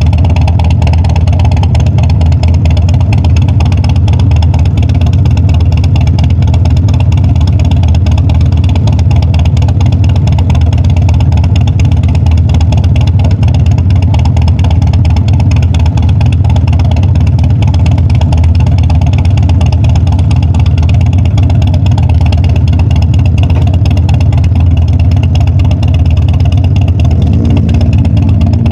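Harley-Davidson Dyna's air-cooled V-twin engine running steadily and loudly.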